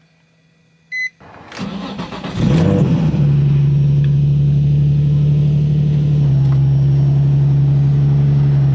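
A short electronic beep, then a 2004 Nissan 350Z's 3.5-litre V6 cranks, catches about two seconds in and settles into a steady fast idle that drops slightly in pitch about six seconds in. It is a cold start meant to test for belt squeal from loose belts.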